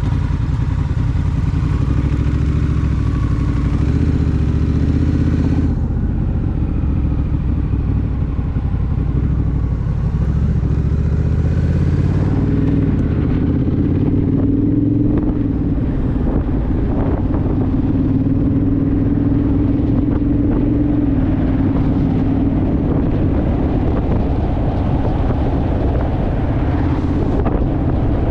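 Honda Rebel motorcycle's parallel-twin engine running steadily on the road, its pitch rising and shifting about halfway through as it picks up speed.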